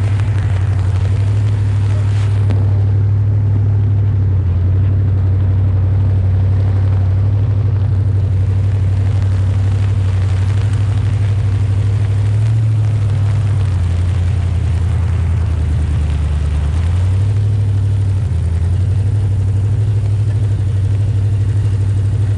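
Nichols N1A's engine running in a steady low drone as the car drives along. The pitch drops about 13 seconds in and comes back up about 17 seconds in as the revs change.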